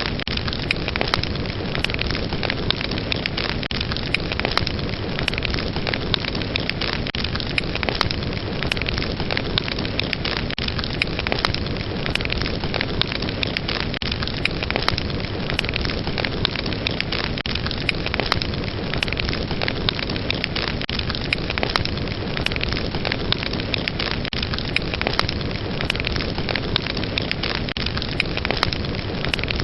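Fireplace fire crackling: a steady rush of flames with frequent sharp pops and snaps scattered throughout.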